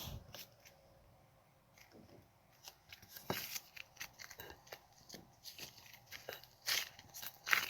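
Coloured slime being handled and mixed, giving irregular sharp crackles and sticky pops that come thicker and louder near the end.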